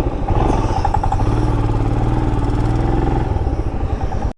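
Motorcycle engine running steadily while riding, a dense low pulsing drone, which cuts out abruptly at the very end.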